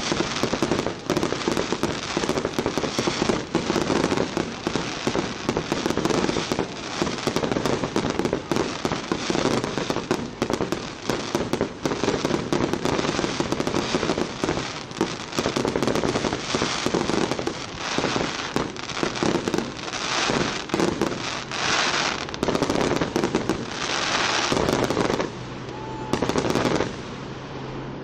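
Aerial fireworks display: a rapid, near-continuous barrage of bangs and crackling as shells burst one over another, thinning out briefly a few seconds before the end.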